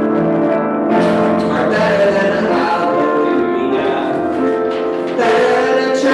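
A worship song sung by voices with instrumental accompaniment, in a steady continuous passage.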